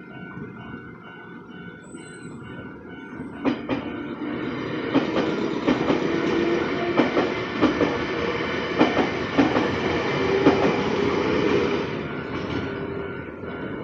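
Nankai Koya Line electric train passing over a level crossing. Its wheels clack over the rail joints from about three and a half seconds in, loudest through the middle and easing off near the end, over the crossing's steady warning bell.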